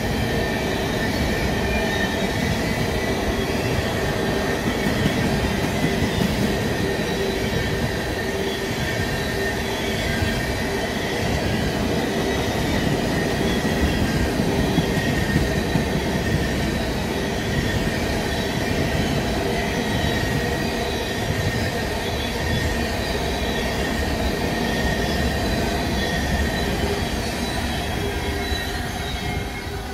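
Freight train of tank cars rolling past at trackside: a steady rumble of steel wheels on rail with thin, steady wheel squeal over it, easing off slightly near the end.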